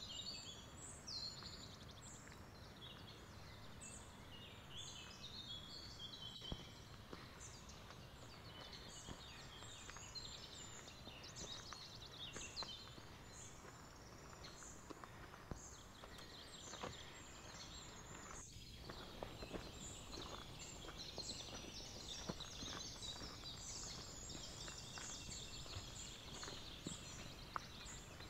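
Several small birds singing and chirping, short high calls and trills following one another all the way through, over a faint steady hiss of outdoor background.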